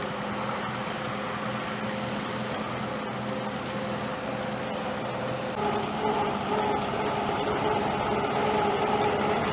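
Antique tractor engines running with a steady hum. About halfway through, a louder, higher engine note takes over as a tractor moves closer.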